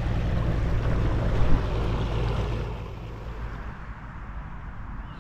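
Low, steady engine drone of a passing motorboat, mixed with water and wind noise, fading off about three seconds in; a single short knock near the middle.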